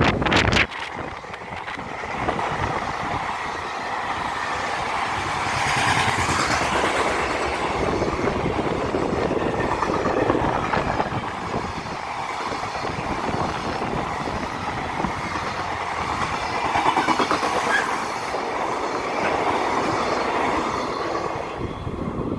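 Electric train running past the station for about twenty seconds. A few loud gusts of wind buffet the microphone at the very start.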